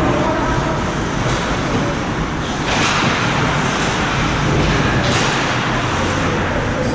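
Steady noisy din of an ice hockey rink during play, with a couple of brief louder scrapes or swells about a third and two thirds of the way in.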